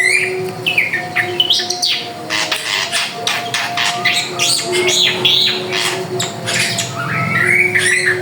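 Drongo singing a fast, varied run of chirps, whistles and trills.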